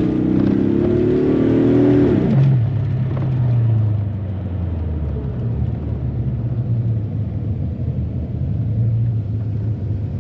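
1986 Corvette C4's upgraded ZR1 V8 engine under hard acceleration, heard from inside the cabin. It revs up with rising pitch for about two seconds, then drops sharply as the throttle eases or it shifts. It settles into a steady cruising drone with tyre and road noise.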